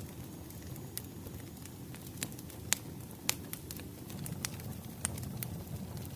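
Wood fire crackling: a steady low rush with a handful of sharp, irregular pops, the loudest a little under three seconds in.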